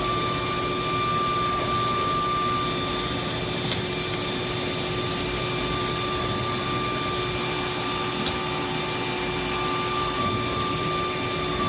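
CNC router (MD 1325S engraving machine) running, its spindle giving a steady whine over steady machine noise, with two faint ticks about four and eight seconds in.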